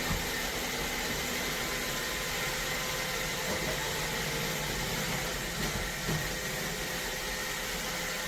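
iRobot Roomba Vac Essential robot vacuum running, a steady whir of its suction motor and brushes.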